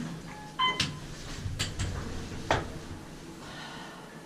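Elevator chime: a short two-note electronic tone under a second in, followed by a few sharp clicks and knocks.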